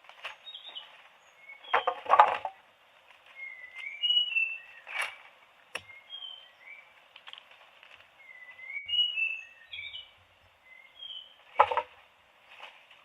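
Small birds chirping over and over, short rising and falling chirps, with two louder noisy bursts, one about two seconds in and one near the end.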